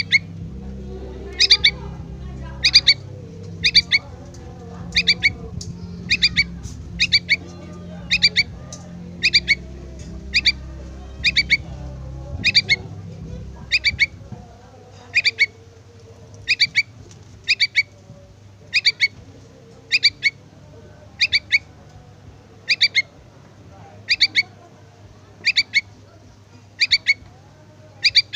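A yellow-vented bulbul chick giving short, sharp begging calls, about one a second, each a quick double note, calling for its parent.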